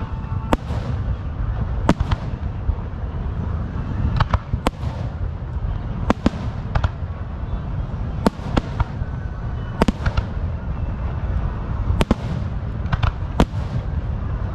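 Fireworks going off: about a dozen sharp bangs at irregular intervals, several trailing off in an echo or crackle, over a steady low rumble.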